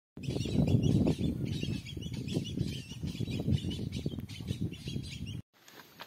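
Small birds chirping again and again over a loud, close, low crackling rumble that cuts off suddenly near the end.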